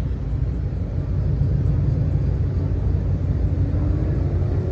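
A car engine running with a loud, low exhaust rumble, steady and a little louder after about a second.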